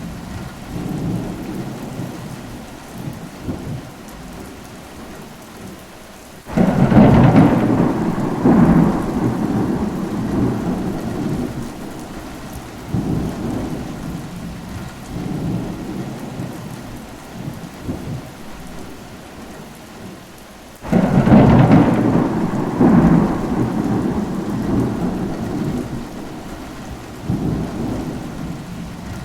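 Rain falling steadily through a thunderstorm. Thunder rumbles on and off, with two sudden loud claps about six seconds in and again about twenty-one seconds in, each rolling away over several seconds.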